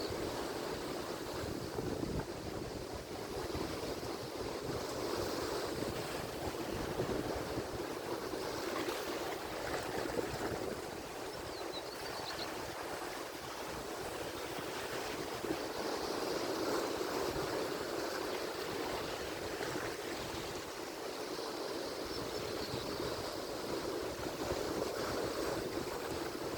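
Atlantic Ocean surf: waves breaking and washing continuously, a steady rushing noise that swells a little in loudness now and then.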